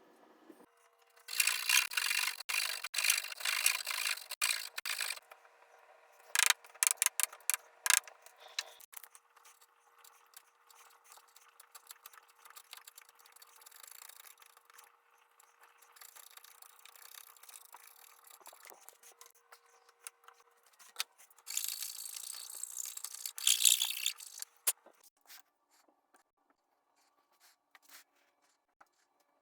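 Scratchy rubbing against wood by hand, in three bouts of a few seconds each with quieter scraping between them.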